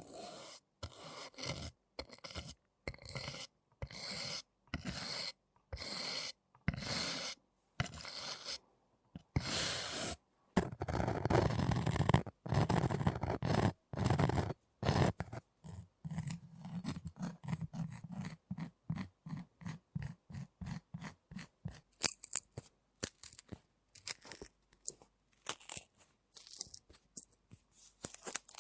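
Close-up scraping and rubbing sounds in short repeated strokes, about one or two a second at first. They change in texture partway through, giving way to quicker small ticks and crisp crackles near the end.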